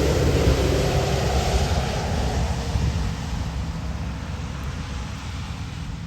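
A heavy truck driving past on a wet road. Its engine drone and tyre hiss are loud at first and fade steadily as it moves away.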